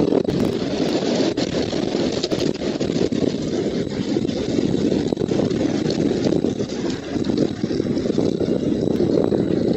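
Strong wind buffeting an outdoor nest camera's microphone: a steady low rumble that swells and dips with the gusts.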